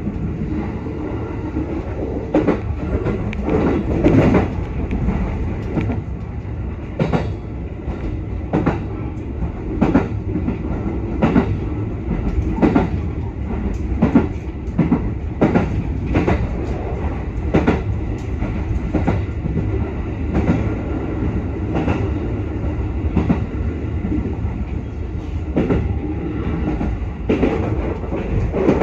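JR West 221 series electric train running at speed, heard from inside the car: a steady rumble of wheels and running gear, with short wheel clacks over the track about every second or so.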